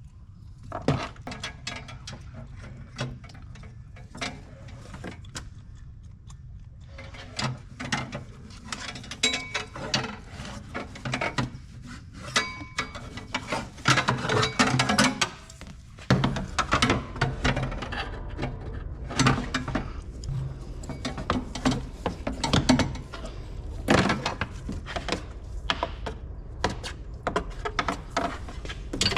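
Irregular metallic clicks, clanks and scrapes from metal air-line tubing being bent and handled by hand. A low hum rises about halfway through.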